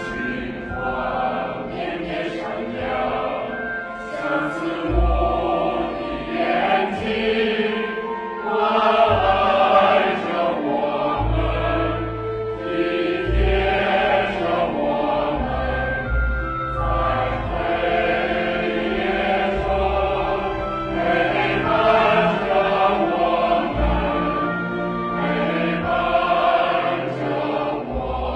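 A choir singing in many voices with musical accompaniment, deep bass notes sounding now and then beneath the held sung pitches.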